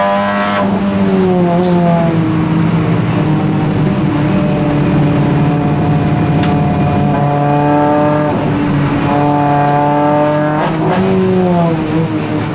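Honda Civic Type R FN2 race car's 2.0-litre four-cylinder engine heard from inside the cabin at racing speed. The engine note falls near the start, holds steady for a few seconds, then climbs twice with a gear change between, over steady road noise.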